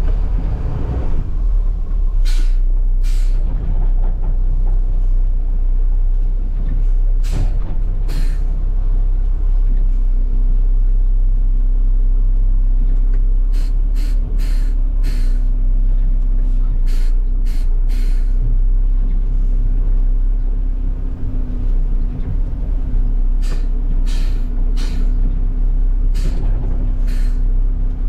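Garbage truck's diesel engine running with a steady low rumble; a steady hum joins in about ten seconds in, and short sharp hisses come every few seconds.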